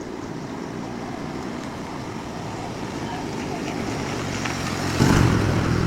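A motor engine running steadily, growing gradually louder, with a sudden louder surge about five seconds in.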